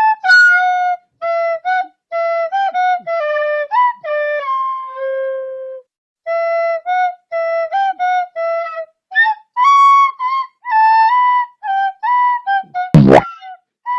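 Background music: a solo flute-like melody of short, separate notes in phrases with brief pauses. A single sharp knock cuts in near the end.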